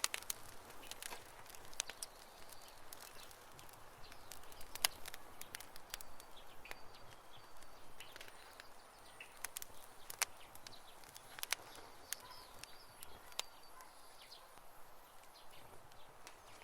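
Campfire burning wood, crackling with irregular sharp pops and snaps, the loudest snap about five seconds in.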